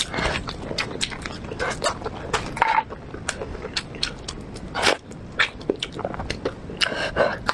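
Close-miked eating sounds of braised pork ribs: chewing and biting with many irregular sharp mouth clicks and smacks.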